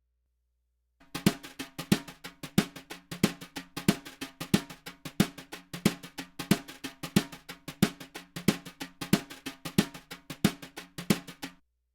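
Recorded drum kit playing a steady beat through an optical compressor plugin, with strong snare-type hits about every two-thirds of a second and lighter hits between. It starts about a second in and stops abruptly near the end.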